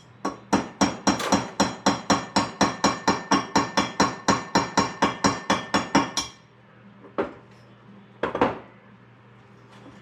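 Hammer tapping on metal in a fast, even rhythm, about four ringing strikes a second for some six seconds. It stops, and two single knocks follow a little over a second apart.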